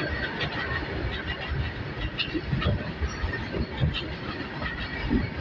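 Loaded coal freight wagons rolling past on their bogies: a steady rumble of steel wheels on the rails, with many scattered clanks and clicks.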